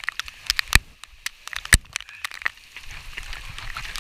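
Rain, with drops striking close to the microphone as irregular sharp taps over a faint hiss.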